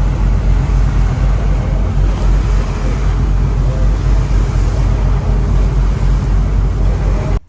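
Loud, steady noise of a moving vehicle, a dense low rumble, cutting off abruptly near the end.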